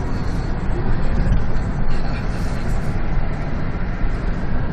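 A car driving along, heard from inside the cabin: steady engine and road rumble.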